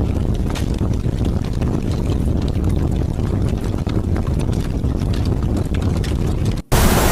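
Heavy rain and wind recording: a low, rumbling wind with rain and scattered faint drop ticks. About six and a half seconds in it cuts out for an instant and switches to a brighter, slightly louder, even hiss of rain.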